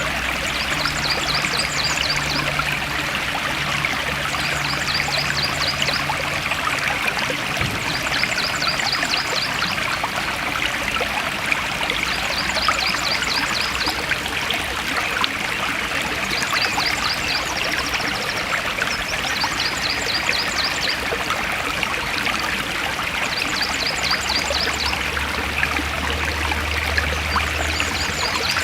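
Forest stream flowing steadily over rocks, a continuous rushing and trickling. A high, rapid trill of ticks comes in about every three seconds.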